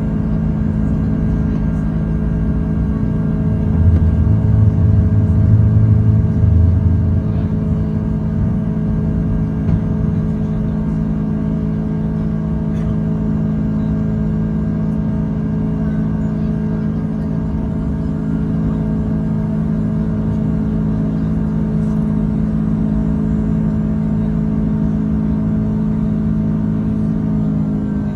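Airbus A330 jet engines heard from the passenger cabin as a steady drone of fixed tones over a low rumble. The rumble swells louder for a few seconds starting about four seconds in.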